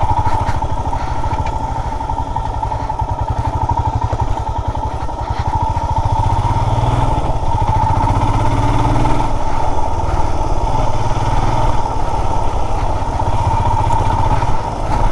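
Motorcycle engine running steadily at low revs, with a steady high tone over it.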